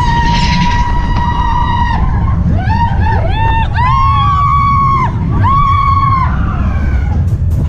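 Riders screaming on a mine-train roller coaster over a steady low rumble from the ride. One long, high, held scream lasts about two seconds, then several shorter screams rise and fall until near the end.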